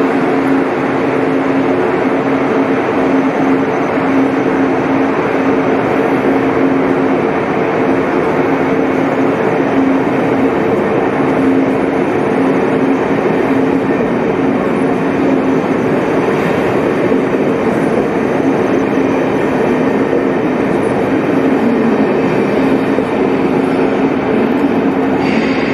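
ICE high-speed train pulling out of an underground station platform, rolling past with a steady rumble of wheels on rails and a continuous electric hum.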